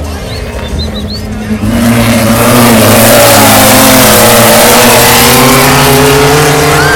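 Volkswagen race car's engine running hard at high revs, jumping suddenly to full loudness about a second and a half in as the car comes close, then staying loud with a slowly wavering engine note.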